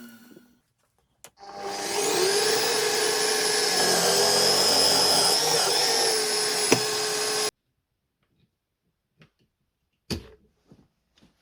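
An electric motor clicks on, spins up with a rising whine, then runs steadily with a loud high whine and hiss. It cuts off abruptly about seven and a half seconds in, and a single knock follows near the end.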